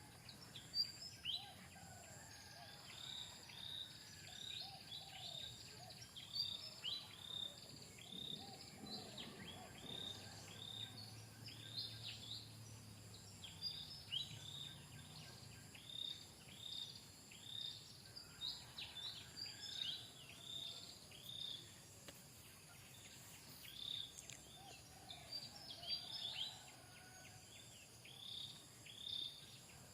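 A long run of short, high chirps, each falling in pitch, about two a second, from a small animal, over a faint steady hiss.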